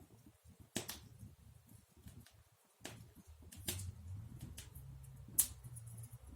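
Wood fire in a fireplace crackling, with a few sharp, scattered pops over a low rumble.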